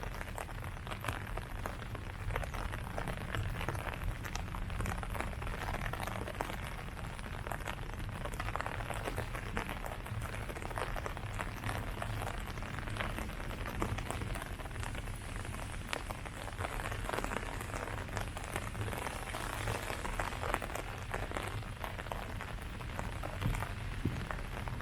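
Steady rain falling on leaves, with many small drops pattering all through it and a low rumble beneath.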